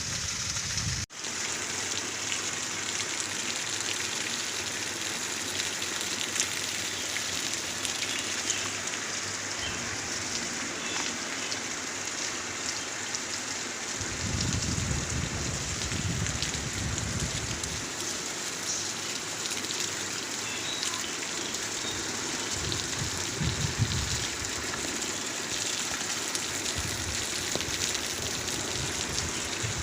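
Heavy monsoon rain falling steadily, with a brief cut-out about a second in. Twice, a low rumble rises under the rain for a few seconds.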